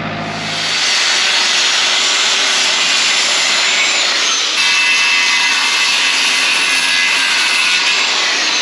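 A power tool running loudly and steadily with an even, hissing noise, a little louder about halfway through.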